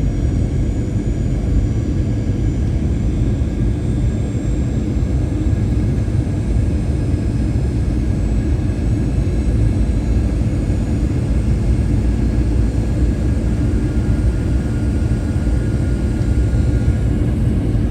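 Steady cabin noise inside a Boeing 737-800 airliner: a constant low rumble from its CFM56 jet engines and the airflow, with faint steady whines higher up.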